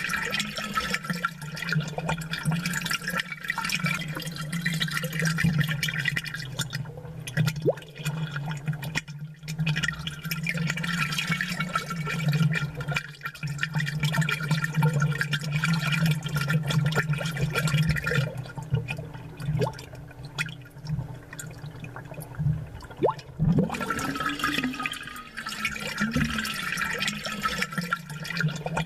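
Aquarium water bubbling, with a continuous fizz of small bubble pops over a steady low hum. The higher fizz thins out for a few seconds past the middle and then comes back.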